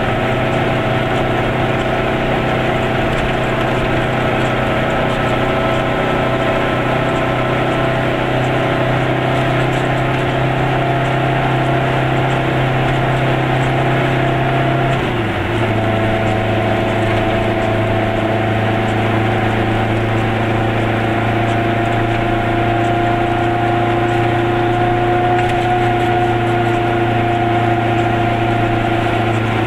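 Goggomobil's two-stroke twin-cylinder engine running under way, heard from inside the cabin. About halfway through its pitch drops suddenly with a brief dip, as at a gear change, then climbs slowly as the car gathers speed.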